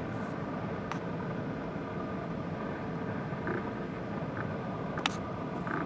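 Steady low rumble of vehicle noise with a faint steady hum, broken by a sharp click about five seconds in.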